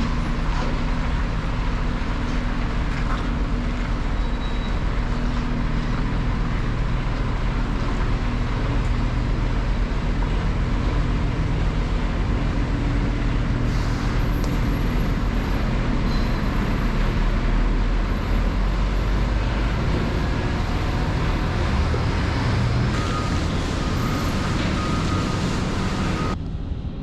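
Scania lorry's diesel engine running as the truck moves off: a steady low drone with road noise.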